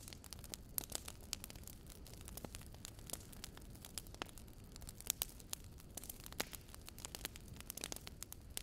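Small driftwood campfire crackling: irregular sharp pops and snaps, several a second, over a low steady rumble.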